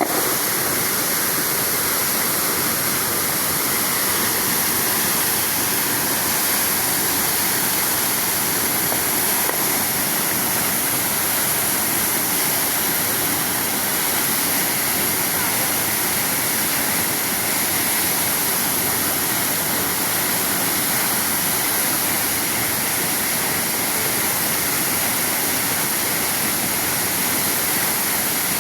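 Waterfall with water pouring down in a steady, even rush.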